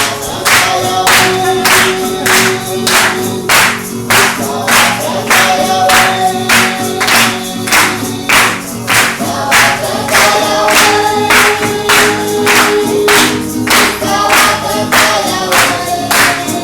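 A group of voices singing a chant together over a steady struck beat, about two beats a second.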